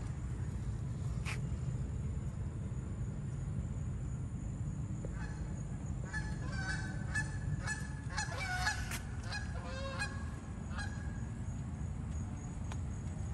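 Birds calling: a run of short, repeated calls from about five to eleven seconds in, thickest around the middle, over a steady low rumble.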